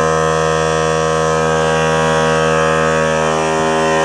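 Small portable electric air compressor running steadily, a loud even motor-and-pump drone, as it pumps its tank up past 35 psi.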